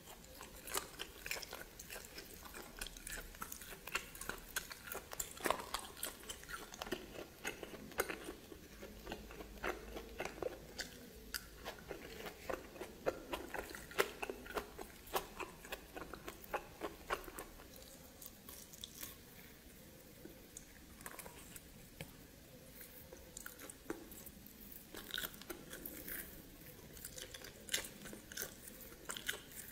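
A person biting and chewing steamed snake meat, with many sharp, irregular mouth clicks.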